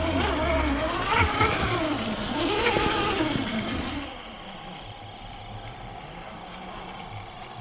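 Electric drive of a scale RC crawler truck whining, the pitch rising and falling with the throttle; about four seconds in it drops to a quieter, steadier sound.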